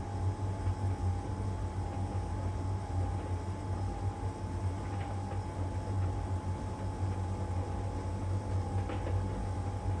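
LG heat pump tumble dryer running steadily mid-way through its drying phase, a low hum under a steady whine. Two faint ticks come about halfway through and again near the end.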